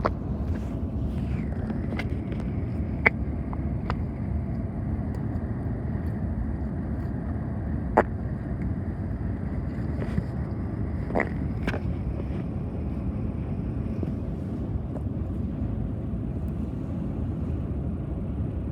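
A steady low rumble, with several short sharp clicks scattered through it.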